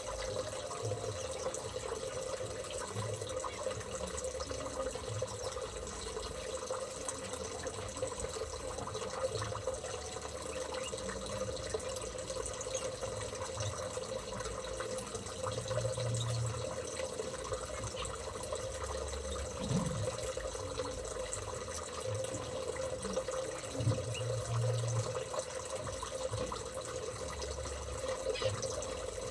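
Water running steadily, with a constant low hum underneath.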